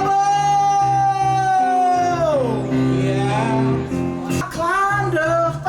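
Live singing with instrumental accompaniment: one long held note that slides down after about two seconds, then the singing picks up again over the steady chords.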